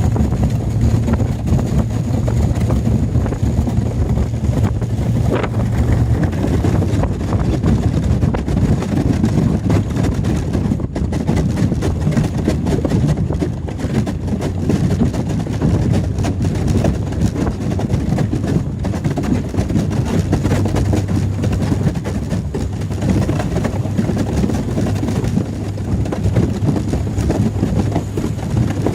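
Fishing boat engine running steadily as the boat breaks through lake ice, with a dense crackle of ice breaking up and wind on the microphone.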